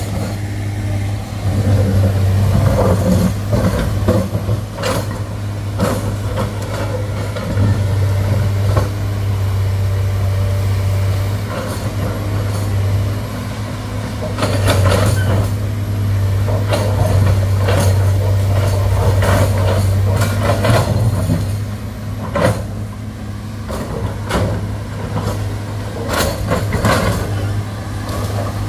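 Excavator's diesel engine running steadily under load, with irregular clanks and scraping as its bucket strikes and digs at very hard rock.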